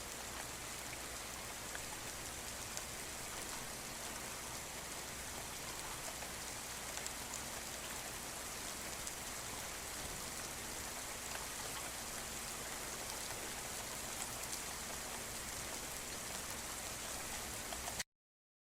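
Steady rain falling, an even hiss dotted with small drop ticks; it cuts off suddenly near the end.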